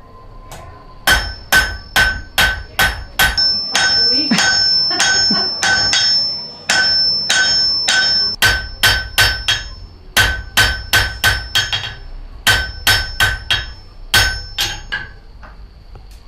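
Blacksmith's hammer striking metal on an anvil in quick runs of blows, about two to three a second, each blow ringing with a clear metallic tone. The hammering starts about a second in, pauses briefly a few times, and stops shortly before the end.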